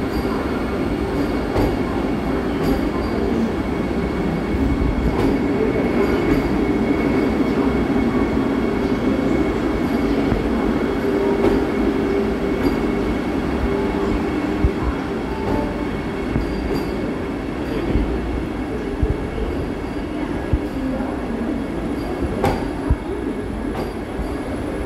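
Vande Bharat Express electric multiple unit running along a station platform: a steady rolling rumble with a thin high wheel squeal, and a few sharp clicks from the wheels over the track.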